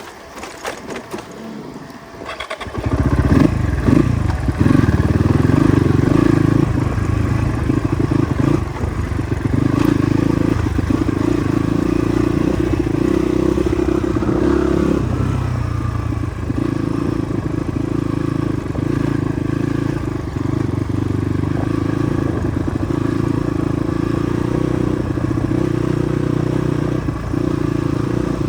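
Motorcycle engine running on a rough off-road track, with rattling and scraping. It comes in suddenly about two and a half seconds in, after a few quieter clicks, and then runs steadily.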